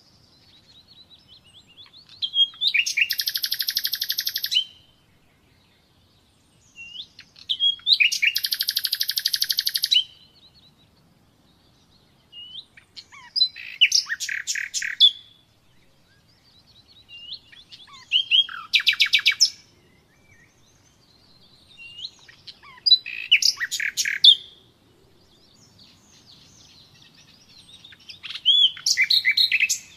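Common nightingale singing: six phrases of about two seconds each, one roughly every five seconds, built from fast runs of repeated notes and quick whistles, with short pauses between.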